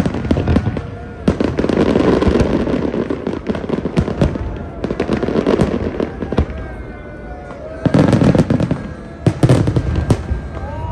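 Fireworks display: rapid bangs and crackling in dense volleys, easing off for a moment about two-thirds through before two more loud volleys near the end.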